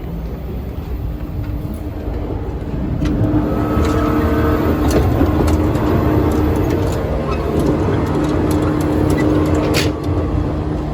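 Running noise of a JR West 115-series electric train heard from inside the carriage: a low rumble of wheels on rail with a steady hum over it. It grows louder about three seconds in, and there is a sharp click near the end.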